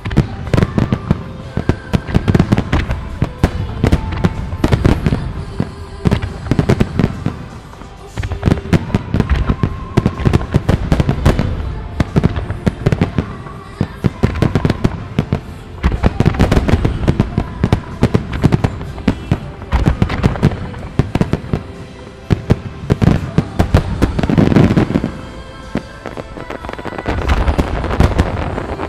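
A starmine fireworks barrage: aerial shells launching and bursting in quick succession, packed into several waves of rapid bangs with short lulls between. Music plays underneath.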